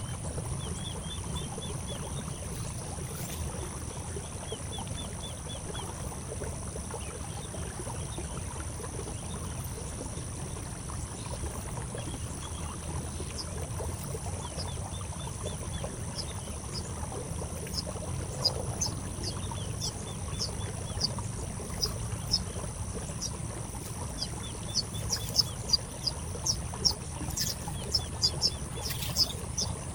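A small bird chirping: short, sharp, high chirps, a few faint ones early and then a quickening run from about halfway on. Under them are a steady low rumble and a constant high insect-like drone.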